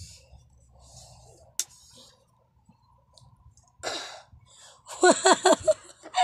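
Faint handling rustles with one sharp click as the folding laptop table's metal legs are moved, then, about five seconds in, a bird calling loudly in a rapid run of short, falling notes.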